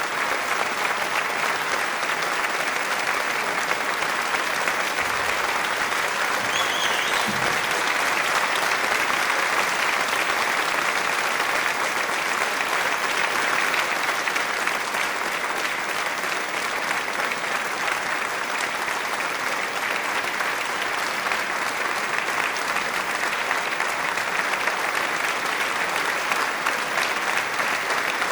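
An audience applauding: many hands clapping in a dense, steady wash that keeps up without a break.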